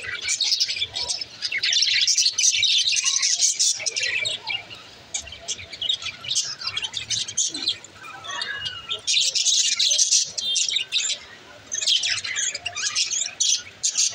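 Pet budgerigars chirping and warbling in rapid high-pitched chatter that comes in clusters, thinning out for a few seconds in the middle.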